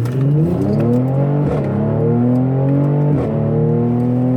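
Mercedes-AMG twin-turbo engine accelerating through the low gears, its note rising, dropping twice, about one and a half and three seconds in, as the transmission shifts up, then rising again.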